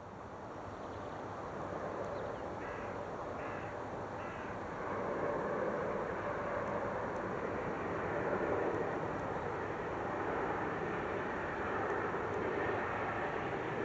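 Jet airliner engine noise building steadily as the aircraft draws closer. A crow caws three times about three seconds in.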